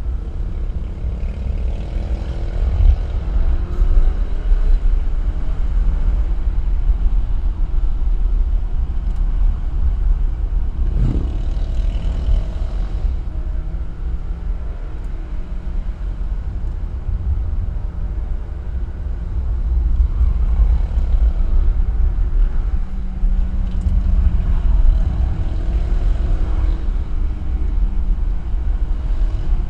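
Alfa Romeo car driving, a heavy low rumble of engine and road noise with the engine note rising and falling as it accelerates and eases off several times.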